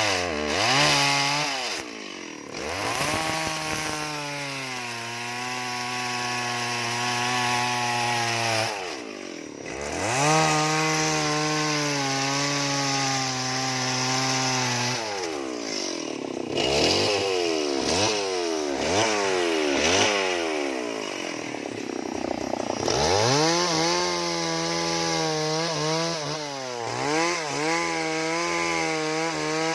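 Chainsaw cutting into wood, its two-stroke engine held at high revs for several seconds at a time and dropping back toward idle three times. Through the middle stretch the engine is blipped up and down quickly, several short revs in a row.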